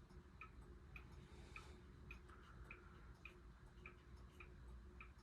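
Faint, even ticking of mechanical wind-up clocks, a little under two ticks a second, over the low steady hum of the SMC A52 ceiling fan's motor.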